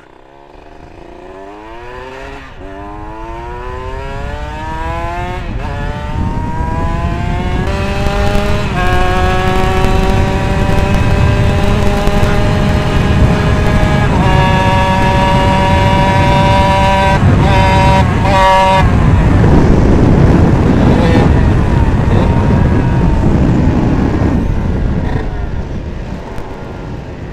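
Kawasaki Ninja 150 R two-stroke single-cylinder engine at full throttle on a top-speed run, its pitch climbing in each gear and dropping at each upshift, up through fifth into sixth. About two-thirds of the way in the throttle is rolled off, the engine note fades under wind rush, and the sound dies away near the end.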